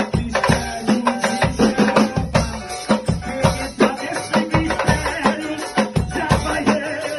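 Band music in the style of a Brazilian Pentecostal 'corinho de fogo' worship chorus: drums and hand percussion keep a steady beat under sustained instruments.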